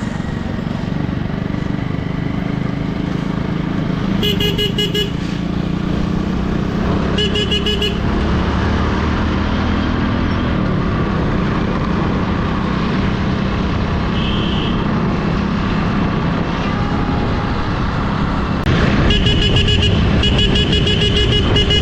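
Motorcycle running steadily on the road, with a horn sounded three times: two short blasts, then a longer run near the end. The horn pulses rapidly, like a warbling trill.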